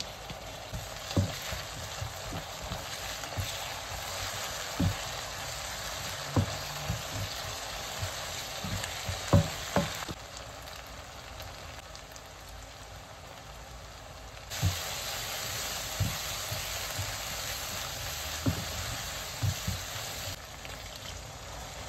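Sliced onions sizzling in hot oil in a nonstick wok, with a wooden spatula stirring and knocking against the pan now and then. The sizzle goes quieter for a few seconds around the middle, then comes back.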